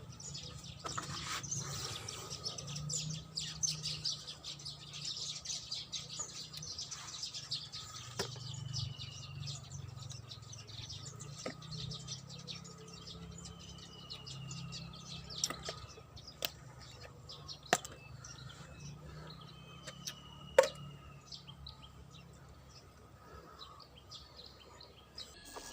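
Small birds chirping and twittering over a low steady hum, with a few short falling whistles and occasional sharp ticks, the loudest about twenty seconds in.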